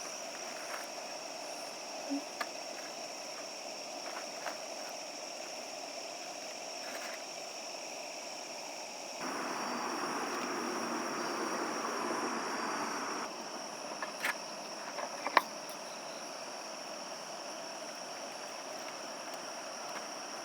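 Night insects trilling steadily in one unbroken high tone. In the middle a few seconds of louder, even noise start and stop abruptly, and a few sharp clicks come through, the loudest a little after halfway.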